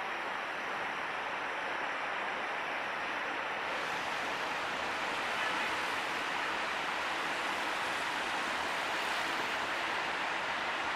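Steady rushing outdoor noise, with the distant sound of an approaching diesel passenger train blended into it and no clear engine note. The hiss turns brighter about four seconds in.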